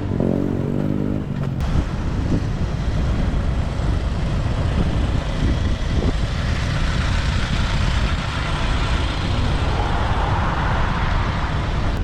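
Road traffic heard from a moving motorbike: a steady low rumble of engine and wind on the microphone, with a short pitched engine note in the first second and a hiss swelling near the end as other vehicles go by.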